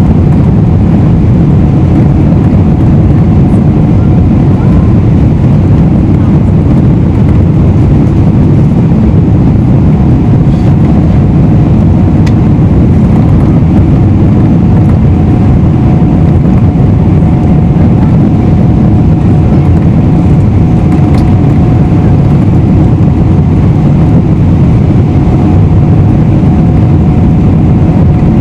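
Steady cabin noise of a Boeing 777-300ER in flight: the GE90 engines and rushing airflow make a loud, even low rumble, with a faint steady tone above it.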